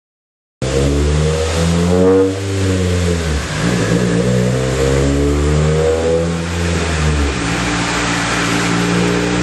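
Honda Fit's four-cylinder engine under load on a dyno, breathing through an aftermarket headers-back exhaust and intake. It starts suddenly about half a second in, rises in pitch, drops briefly about two seconds in, then keeps running hard.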